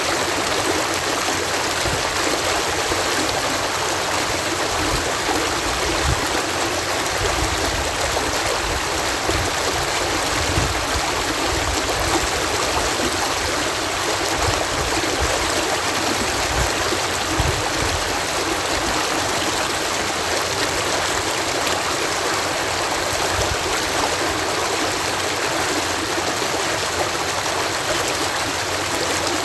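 Water cascading at a canal lock: a steady, even rush of falling water with a low rumble that swells and fades.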